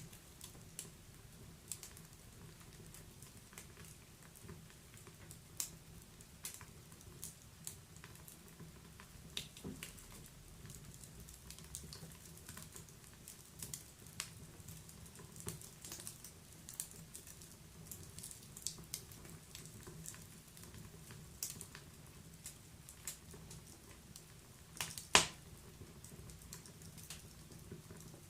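Wood fire crackling: irregular sharp snaps and pops over a faint low rumble, with one much louder pop about 25 seconds in.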